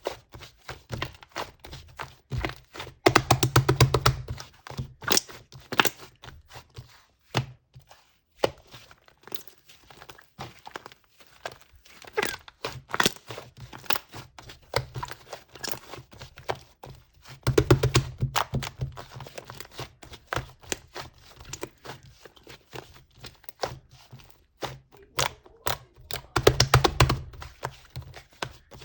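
Soft white clay slime being squeezed and poked by hand, giving crackling and popping clicks as trapped air bursts, in denser crackling stretches every several seconds.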